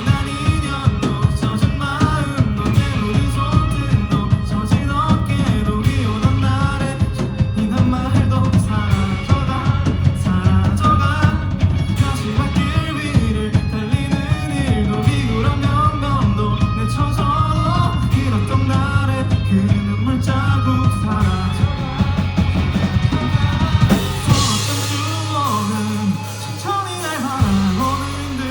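Live rock band playing with a singer's voice over drums, bass and guitar. Near the end the drum beat stops with a cymbal wash, leaving the voice over held low notes.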